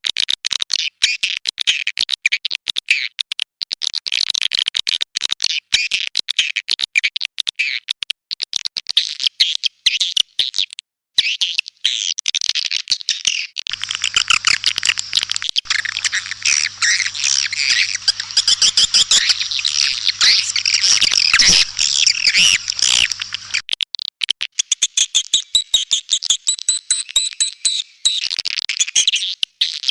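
Swiftlet calls, dense and continuous, with rapid twittering chirps and clicks from a swiftlet call (lure) recording. The calls break off briefly about eleven seconds in. A low electrical hum runs underneath for about ten seconds in the middle.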